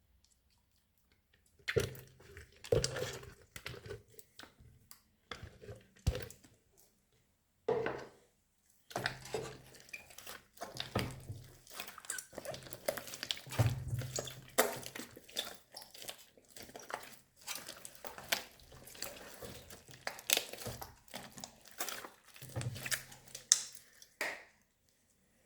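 A large mass of mixed slime, crunchy slime among it, being squished and kneaded by hand, with irregular crackles, squelches and clicks. It comes in stretches broken by short silences.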